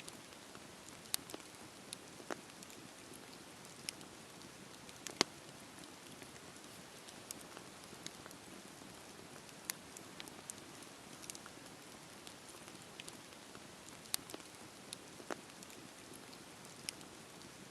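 Campfire crackling: a steady soft hiss with irregular sharp pops and snaps, a few of them louder than the rest.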